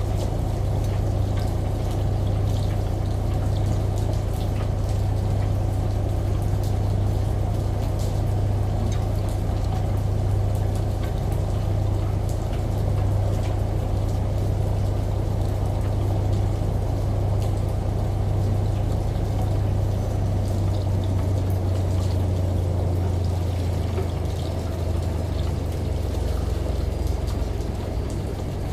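Washing machine running with water pouring in: a steady low hum under a continuous rush of water, with scattered light drip-like ticks. The hum thins a little about three quarters of the way through.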